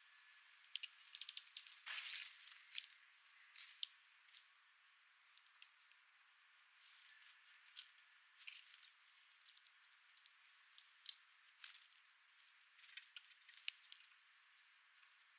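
Small birds pecking and scrabbling at a seed feeder: scattered light taps and clicks at an irregular pace, with a short high call about two seconds in.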